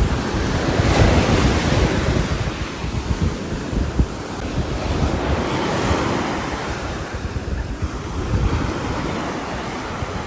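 Rain falling on a roof, heard as a dense rushing hiss over a low rumble, with gusts of wind. The hiss swells about a second in and again around five to six seconds, then eases.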